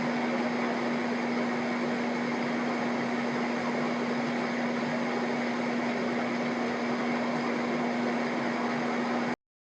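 A steady mechanical hum: one constant low tone over an even hiss, unchanging throughout, starting and stopping abruptly.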